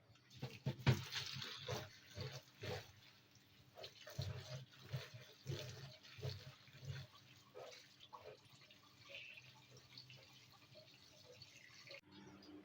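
Water splashing and dripping in a sink, with many irregular small knocks and splashes.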